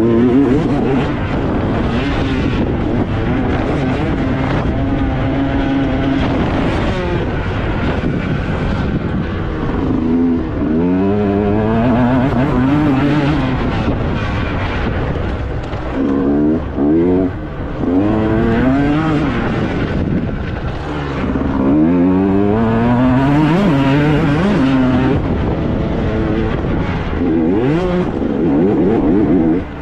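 Motocross bike engines revving up and down, their pitch rising and falling again and again, with more than one engine heard at times.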